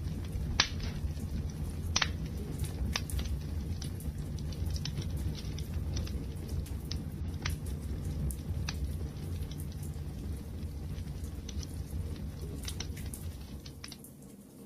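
Wood fire crackling, with scattered sharp pops over a steady low rumble; two louder pops come about half a second and two seconds in. The sound dips briefly near the end.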